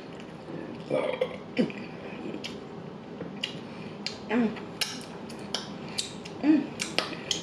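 Close-miked mouth sounds of eating: wet chewing clicks and lip smacks scattered throughout. Short throaty sounds come about a second in, midway through and near the end.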